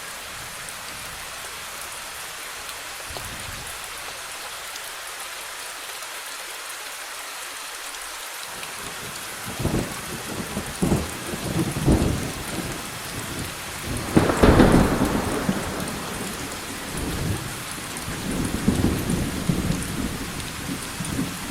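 Steady rain falling, then about nine seconds in thunder starts rumbling in several rolling peals over the rain. The loudest clap comes about two-thirds of the way through, followed by further rumbles.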